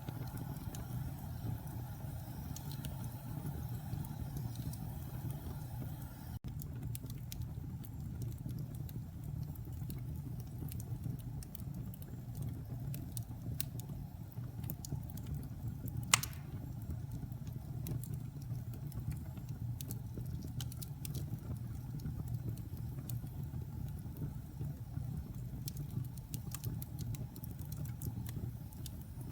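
Wood fire in a fireplace: a steady low rumble of burning with scattered small crackles, and one louder pop a little past halfway.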